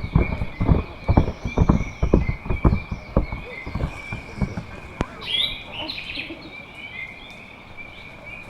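Rainforest sound with a steady high insect drone, over a run of quick irregular thuds and knocks that fade out about four seconds in. A bird chirps briefly about five seconds in.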